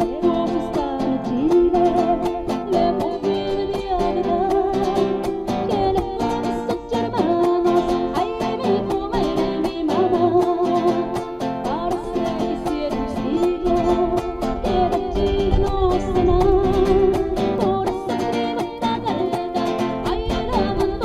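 Live acoustic folk music: a strummed guitar with a held, slightly wavering melody line above it.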